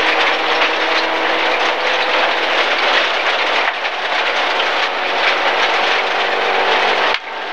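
Inside a rally-prepared MG ZR 1.4 at speed on gravel: a loud, steady rush of gravel and stones rattling against the underbody and wheel arches, over the four-cylinder engine held at a steady note. The noise dips briefly near the end.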